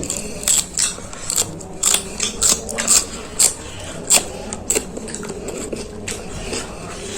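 Crisp panipuri shells being bitten and chewed: a run of sharp, crackly crunches, irregular at roughly two a second.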